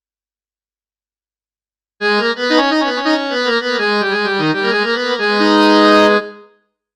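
A SwarPlug 4 virtual-instrument patch with a free-reed keyboard sound plays a short melodic phrase. It starts about two seconds in, ends on a held chord and fades out shortly before the end.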